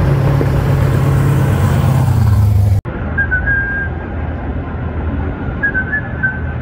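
A Fox-body Mustang's 427 Ford V8 running at low revs, a loud steady drone as the car drives by. About three seconds in this cuts to quieter drag-strip ambience: a low rumble with a few short, high whistling tones.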